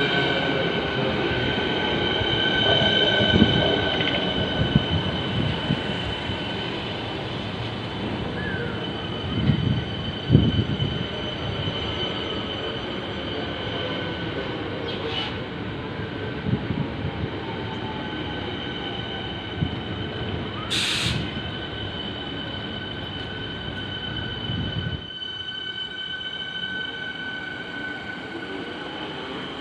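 Siemens Nexas electric suburban train rumbling slowly along a station platform with a steady high whine or squeal, several loud clunks, and a brief hiss about two-thirds through.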